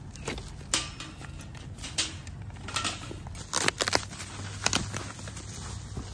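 A series of sharp clicks and knocks at irregular intervals, with a cluster of quick ones a little past the middle, over a steady low hum.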